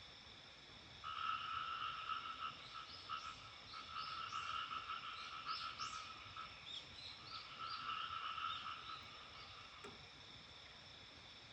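Frogs calling in three rapid trilling bouts, each a couple of seconds long, over a steady high insect drone, with short rising chirps mixed in.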